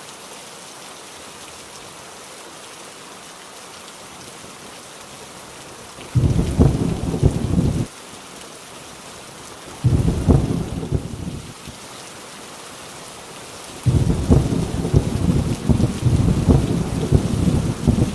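Heavy rain falling steadily on a rusty tin roof, with thunder rumbling low three times: starting about six seconds in, again about ten seconds in, and a longer roll from about fourteen seconds in.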